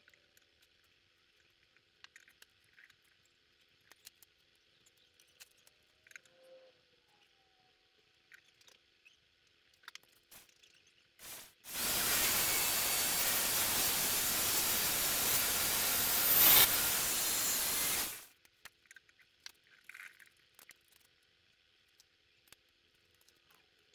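Aerosol spray can spraying: a brief puff, then a steady hiss lasting about six seconds, with faint light taps before and after.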